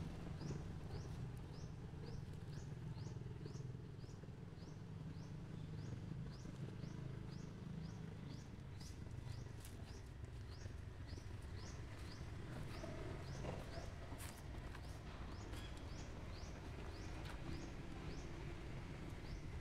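A bird calling steadily with a short, high, falling chirp repeated about twice a second, over a steady low outdoor rumble.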